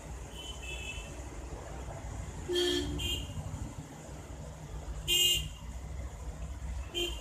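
Vehicle horns honking from the street: a few short toots, the loudest about two and a half and five seconds in, with a quick one near the end, over a steady low hum.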